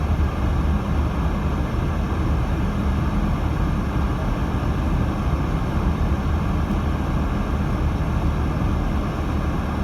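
Steady road noise inside a 2018 Subaru Crosstrek's cabin while driving: a low, even rumble of tyres on a snowy road and the engine.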